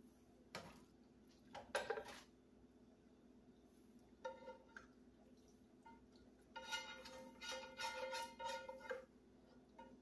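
A cooking utensil knocking and scraping in a pan of food: a few knocks in the first two seconds, then a squeaky scrape that rings at a steady pitch, once briefly and then in a longer run of strokes toward the end.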